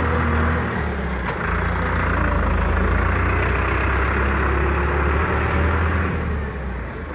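Tractor engine running steadily at a low, even pace, with a slight dip in level about a second in.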